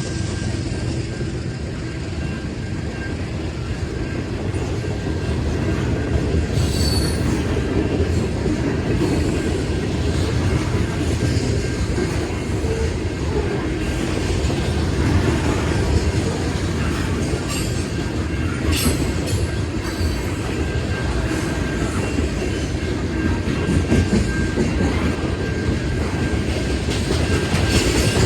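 Freight train cars rolling past a steady rumble of steel wheels on rail with clickety-clack, and a few brief high wheel squeals.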